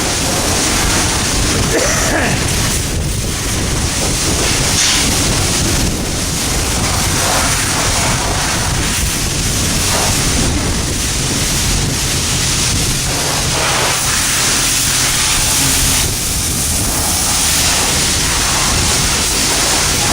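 Pressure-washer wand spraying water in a steady hiss onto a mini bike.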